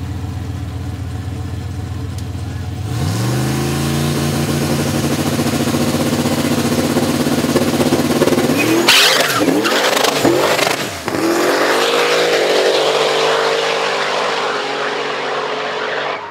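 Turbocharged Cadillac CTS-V V8 idling on the drag strip start line, then revving up about 3 s in and holding high revs while staging. Around 9 s it launches with a loud burst, then accelerates hard down the track, the engine pitch dipping at a gear shift and climbing again.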